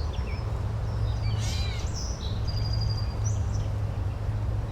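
Nature soundscape: several birds chirping and calling, the calls clustered in the middle, over a steady low rumble.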